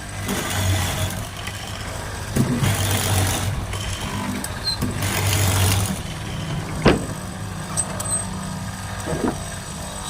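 Workshop power tool running in three short bursts of about a second each, with a single sharp knock about two-thirds of the way in and a few lighter clicks after it.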